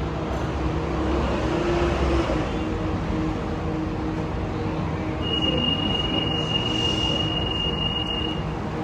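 Alstom metro train running through a station with a continuous rumble. A steady high-pitched tone sounds for about three seconds in the second half.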